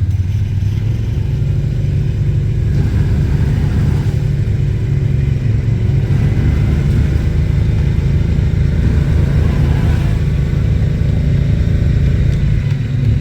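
ATV engine running with a steady low rumble, rising and falling slightly as the rider works to get the machine out of the mud where it is stuck.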